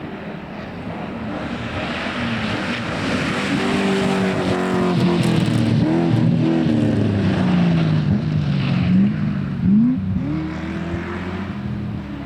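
A rally car running past, its engine note rising and falling through several gear changes and lifts, over a hiss of tyre noise. It grows louder over the first few seconds, peaks with quick revs about nine and ten seconds in, then fades.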